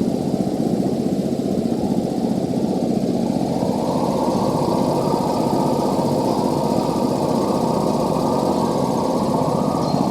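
Industrial rotary screw air compressor running steadily after a repair, a dense, even machine noise that brightens slightly about four seconds in.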